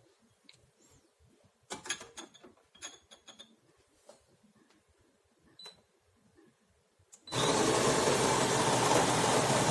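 A few light plastic clicks and taps, then about seven seconds in a De'Longhi Dinamica fully automatic espresso machine starts up suddenly with a loud, steady whir.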